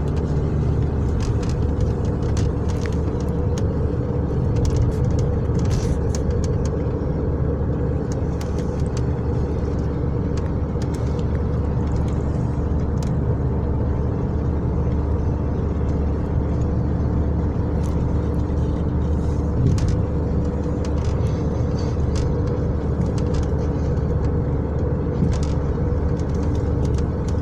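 Steady engine and road rumble of a moving vehicle, unchanging in level throughout.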